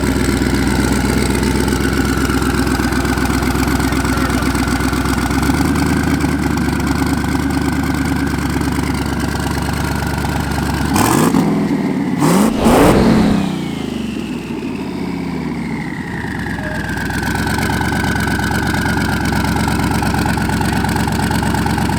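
LS-swapped twin-turbo V8 in a Mercedes E63 AMG running loud, with a quick rise and fall in revs about halfway through where it is at its loudest. Its sound is loud enough that someone standing next to the car can't hear himself.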